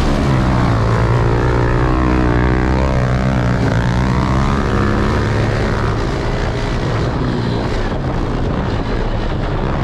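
Several small pit bike engines running hard in a race. Their pitch rises and falls as they rev over a steady low drone, and the revving is strongest in the first half.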